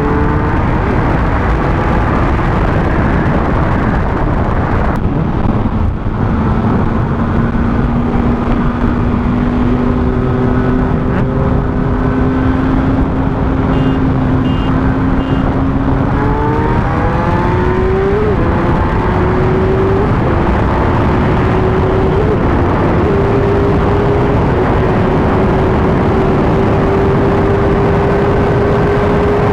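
Sportbike engine under way with heavy wind rush over the helmet microphone; the engine note drops about five seconds in, holds and creeps up, then rises quickly around the middle as the bike accelerates.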